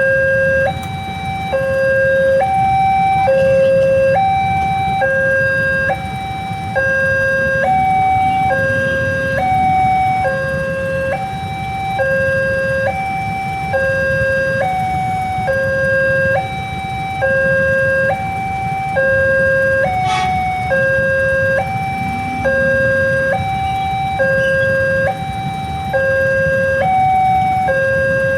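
Railway level-crossing warning alarm sounding: an electronic two-tone signal alternating steadily between a low and a high note, about one high-low cycle every second and a half, warning that a train is approaching. A steady low rumble runs underneath.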